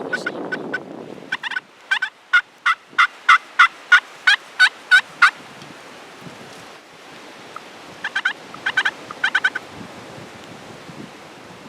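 Wild turkey calling: a steady run of about a dozen sharp yelping notes, about three a second, then a shorter cluster of quicker notes about eight seconds in. Wind rumbles on the microphone at the start.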